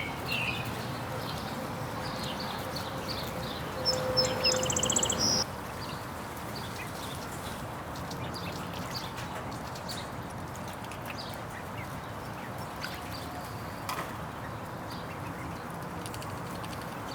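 Backyard domestic ducks calling: scattered short high peeps, with a loud burst of rapid quacking calls about four seconds in that lasts about a second and a half.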